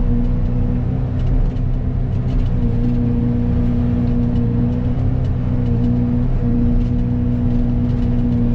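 Excavator diesel engine and hydraulic Fecon forestry mulcher head running steadily, a loud droning hum that sags briefly in pitch a few times as the head takes load, with faint scattered ticks.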